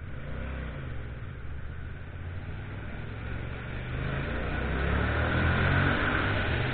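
Motorcycle engine running under way, its pitch shifting with throttle, over a steady rush of riding wind; it grows louder from about four seconds in as the bike speeds up.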